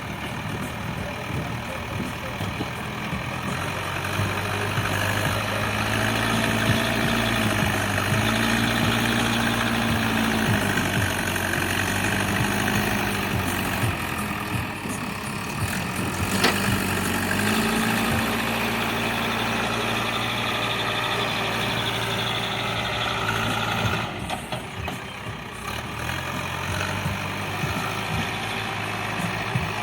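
Heavy diesel engine of working machinery running steadily, its pitch swelling up and settling back several times as it takes load, with one sharp knock about halfway through.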